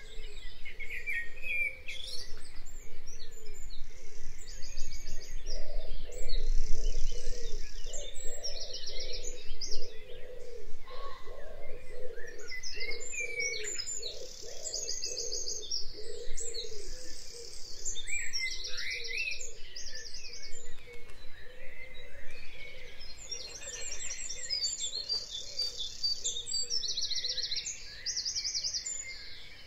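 Birds singing: repeated fast, high trills and scattered chirps over a steady lower-pitched background.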